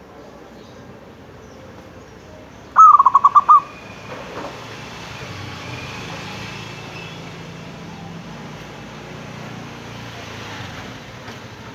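A zebra dove (perkutut) calls once, about three seconds in: a short burst of about six rapid coo notes lasting under a second. A low steady hum follows.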